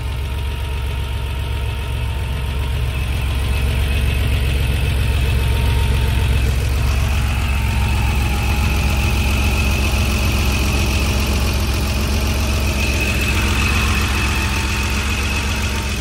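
1989 Porsche 911 Carrera's original air-cooled 3.2-litre flat-six idling steadily after a start, running smoothly with no knocking or pinging.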